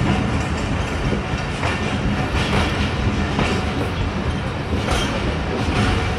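Pakistan Railways passenger train coach rolling along the track: a steady rumble of wheels on rail with a clack over the rail joints every second or so.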